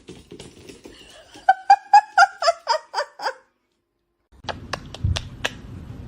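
High-pitched laughter, a quick run of about eight 'ha' pulses that falls in pitch at the end. After a sudden cut, four sharp clicks or knocks follow, one with a low thump.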